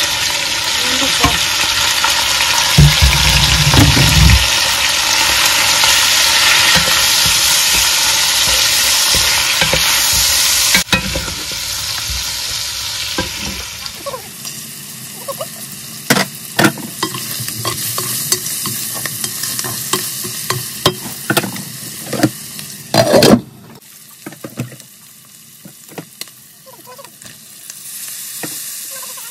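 Chicken wings sizzling in hot oil in a nonstick pot while spices are stirred in with a wooden spatula, with scraping and knocking of the spatula against the pot. The sizzle is loud at first, then drops sharply about halfway, leaving scattered clicks and scrapes.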